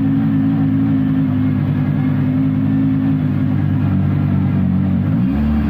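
Drift car engine running at low speed as the car rolls along, a steady low drone that dips and rises in pitch briefly about five seconds in.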